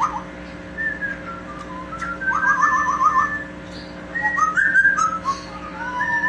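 Amazon parrot whistling a tune: a string of clear whistled notes, some sliding in pitch, with a quick run of repeated notes about two seconds in.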